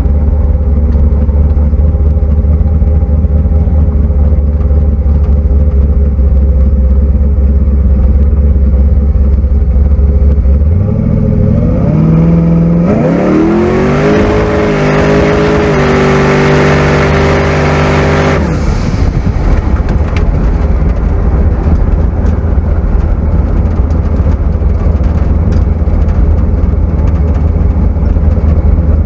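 Twin-turbo big-block Chevy V8 in a car, cruising with a steady low drone, then about ten seconds in pulling hard under throttle: the engine note climbs, steps up once and holds loud and high for several seconds. Near the middle it lets off and settles back to a steady cruise.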